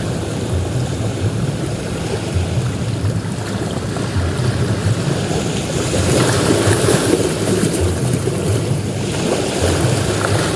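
Ocean surf: waves breaking and washing up a beach in a continuous hiss, with a louder surge about six seconds in and another near the end, over a low rumble of wind on the microphone.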